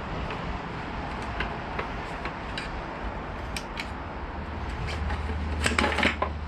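Scattered light clicks and taps of plastic tail fairing and tail light parts on a Yamaha R1 being worked loose by hand, with a cluster of louder clicks near the end. A low steady hum comes in about five seconds in.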